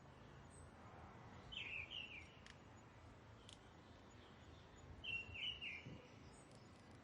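A bird calling twice, each time a short phrase of quick chirps, about three and a half seconds apart, over faint background noise.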